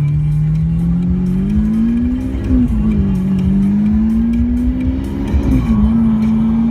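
Lamborghini Aventador SV Roadster's V12 engine accelerating hard, its pitch climbing, dropping sharply at an upshift about two and a half seconds in and again at another upshift about five and a half seconds in, then holding steady. Heard from the open cockpit with the roof off.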